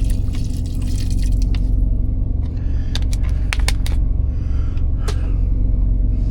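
Water pouring into a cooking pot for about the first two seconds, then a few sharp clicks and knocks, over a steady low engine hum.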